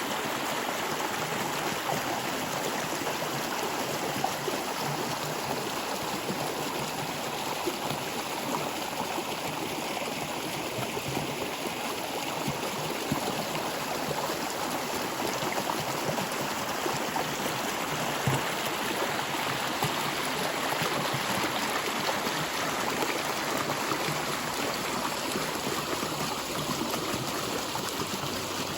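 Stream water flowing and gurgling over rocks, a steady even rush with small trickling splashes.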